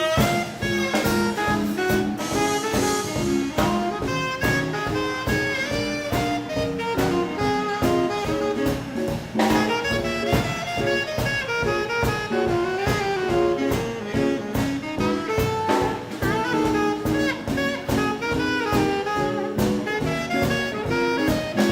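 Swing band playing an instrumental passage: saxophone melody over drum kit and rhythm section.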